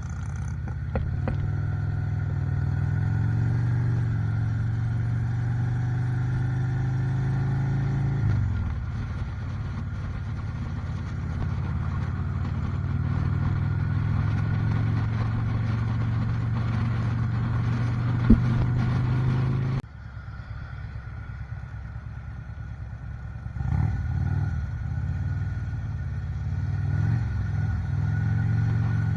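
Motorcycle engine running under way with a steady note. Its pitch falls about eight seconds in, there is a sharp click shortly before the sound drops abruptly, and it picks up again a few seconds later.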